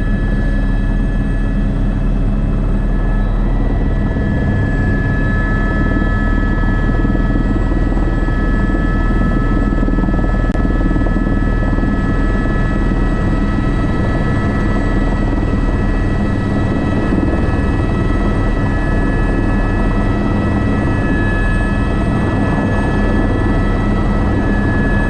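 Airbus AS350 B3 (H125) helicopter running steadily: low rotor and engine noise under a steady high turbine whine.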